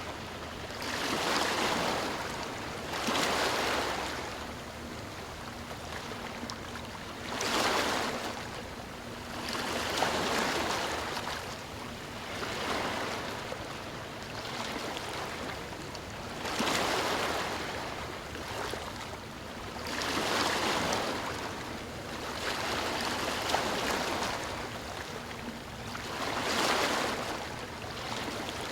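Sea waves washing onto a shore: a steady hiss of moving water that swells into a surge of surf about every three to four seconds.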